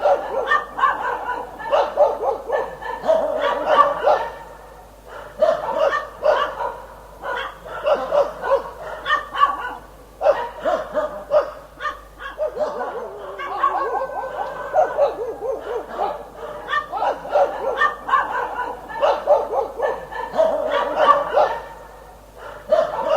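Dog barking repeatedly in quick runs of barks, with brief lulls every few seconds.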